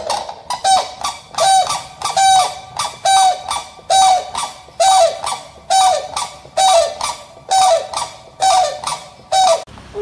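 A bird honking over and over, about one and a half short calls a second, each call dropping in pitch at its end.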